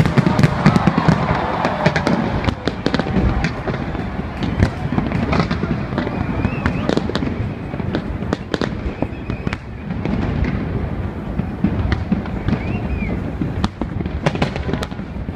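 Large fireworks display: many shells bursting in quick, overlapping succession, a near-continuous run of bangs and crackling.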